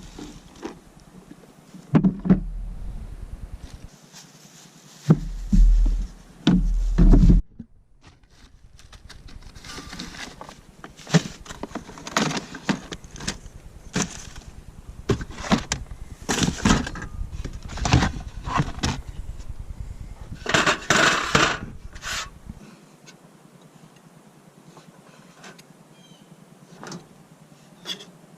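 Camp cooking gear being handled: a long run of clatters, clicks and knocks, busiest near the end. In the first few seconds, wind buffets the microphone in heavy low gusts.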